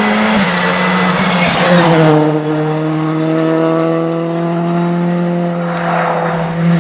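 Hill-climb race car engine running hard at high revs. Its pitch steps down about half a second in and again near two seconds, then holds with a slow slight fall, with a brief hiss between one and two seconds.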